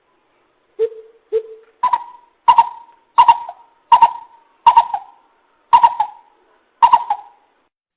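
Greater coucal hooting: two low hoots, then a run of about seven higher, louder hoots at an even pace, each trailing off with an echo. This is the call used as a decoy to draw in wild coucals.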